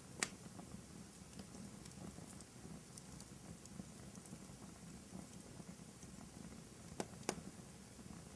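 Wood fire burning in a fireplace, crackling steadily, with a sharp pop just after the start and two more pops close together near the end.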